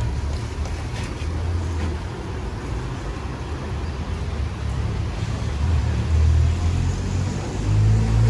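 Street traffic on a rainy city street: motor vehicle engines rumbling close by, growing louder about two-thirds of the way in and again near the end, over a steady hiss of rain and wet road.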